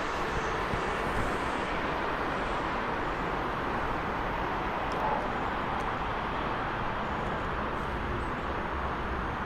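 Steady rolling rumble and hiss of a train running through a railway station, its upper hiss thinning over the first couple of seconds.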